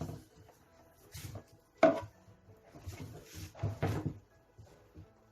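Knocks and clatter of a panel being worked loose and removed from a subwoofer unit, several separate knocks with the loudest about two seconds in.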